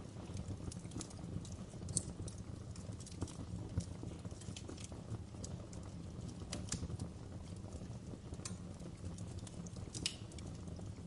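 Wood fire crackling in a fireplace: a steady low rumble of burning with irregular sharp pops and snaps, a few louder cracks about two, six and ten seconds in.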